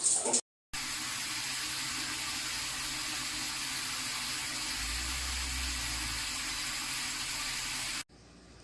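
Water spraying steadily from a shower head as an even hiss. It breaks off briefly just after the start and cuts off suddenly near the end.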